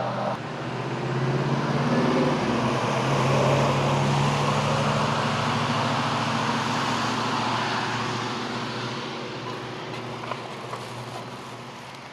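A motor vehicle passing by on the street: engine and tyre noise builds over the first few seconds, then slowly fades away.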